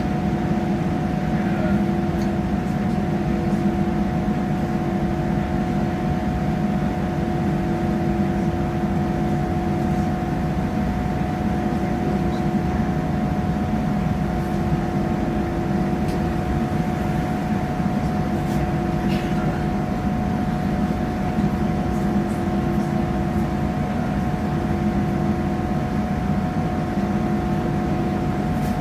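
Cabin noise inside a moving diesel passenger train: a steady engine drone and the rumble of wheels on the track, with a constant whine.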